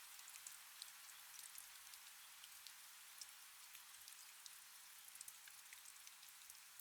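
Faint steady rain: a soft hiss dotted with many small drop ticks.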